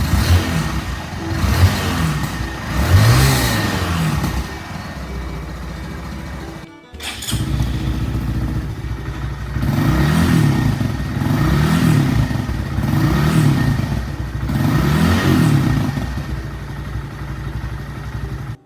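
Honda Monkey 125's single-cylinder engine running through a Takegawa Normal Look sport muffler, idling and being revved. There are two throttle blips in the first few seconds and a brief break near the middle. Later come four more blips about a second and a half apart, each rising and falling back to idle.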